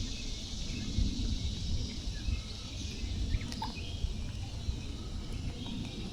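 Outdoor creek-side ambience: a steady low rumble, a constant high hiss, and a few short, faint bird chirps.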